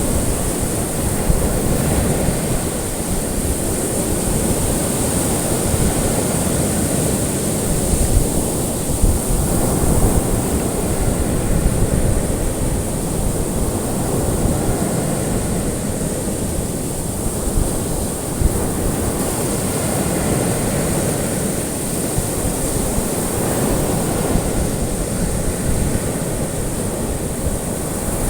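Ocean waves washing onto a shore in a continuous, gently surging roar, with a thin steady high hiss over it.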